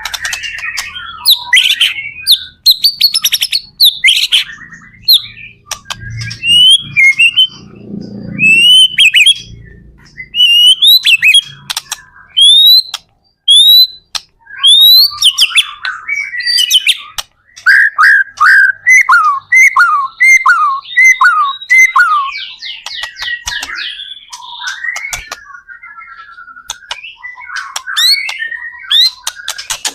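White-rumped shama (murai batu) singing a loud, varied song of rising whistles and sharp chips, with a quick run of repeated falling notes about two-thirds of the way through.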